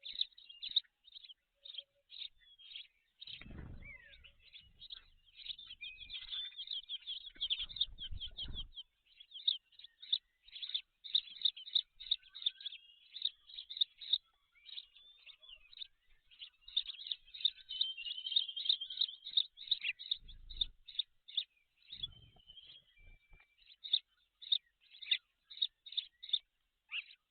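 Birds chirping in rapid, high, repeated notes throughout. A few short low rustling thumps break in at about four seconds, eight seconds, and twice past twenty seconds.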